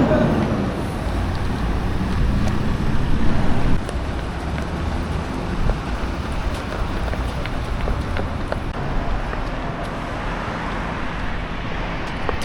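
A ferry's engine running with a steady low rumble, with wind noise on the microphone. A faint engine hum drops away about four seconds in.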